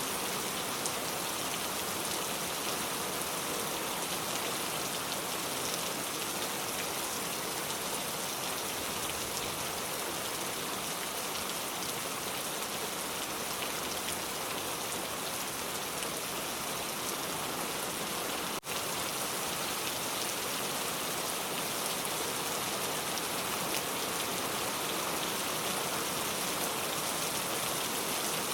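Steady rain falling, an even hiss of many drops. About two-thirds of the way through it cuts out for a split second, then comes straight back.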